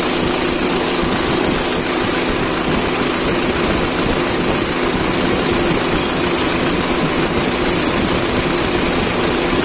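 Honda City i-VTEC's four-cylinder petrol engine idling steadily with the hood open, the AC switched on but its compressor not engaging.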